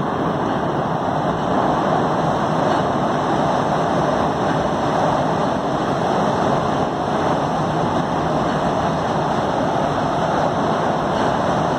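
ICE high-speed train rolling across a steel truss railway bridge: a steady rush of wheels on rails, swelling over the first second or two and then holding.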